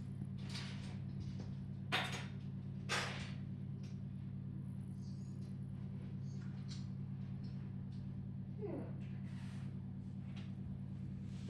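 A few short knocks and clatters of objects being handled, the two loudest about two and three seconds in, over a steady low electrical hum.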